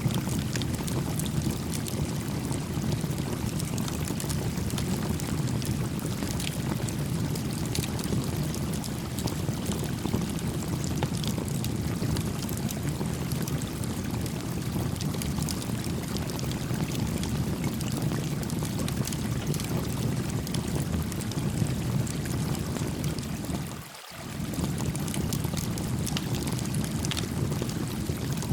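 Small campfire crackling with frequent fine pops over the steady rush of a gently flowing stream. The sound dips briefly about three-quarters of the way through, then returns.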